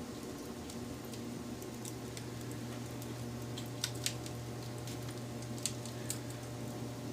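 Wood fire burning with a steady low rumble, broken by scattered sharp crackles and pops: a pair about four seconds in and another pair near six seconds.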